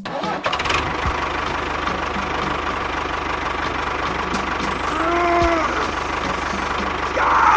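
A small engine running steadily with an even, knocking rhythm. A short pitched squeal sounds about five seconds in.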